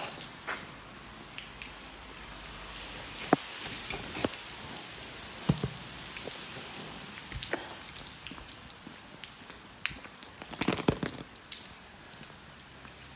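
Steady rain falling, with irregular sharp drops tapping close by, a quick cluster of them a little before the end.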